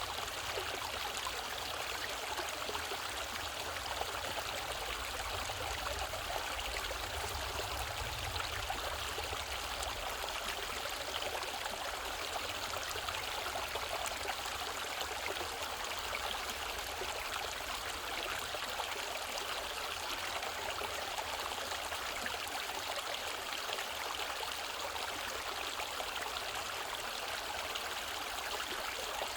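Mountain valley stream running over rocks: a steady rushing and trickling of water.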